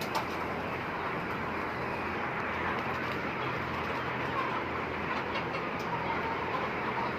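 Large flock of Hubbard broiler breeder chickens clucking and chattering continuously over a steady low hum.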